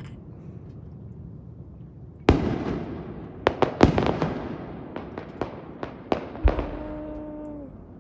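Large aerial fireworks shells bursting at a distance. After about two quiet seconds comes a loud boom, then a run of sharper bangs and cracks, with one more boom near the end.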